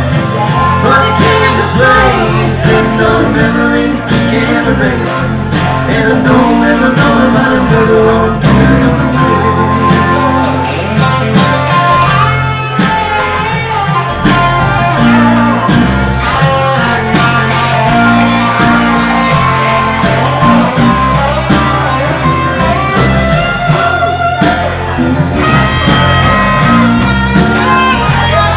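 Live blues band playing, with guitars and bass over a steady beat and singing.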